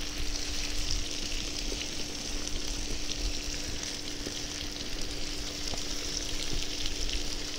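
Hunting sausages, pork belly and chopped vegetables frying in oil in a kazan, a steady sizzle with small scattered crackles.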